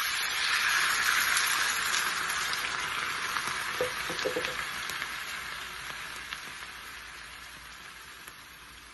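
Wet ground ginger paste poured into hot oil sizzles loudly. The sizzle starts suddenly, peaks about a second in, and then slowly fades over the next several seconds.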